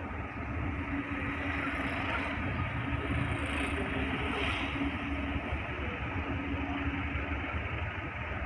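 Distant approaching train with a diesel locomotive: a steady low rumble with a faint held engine hum.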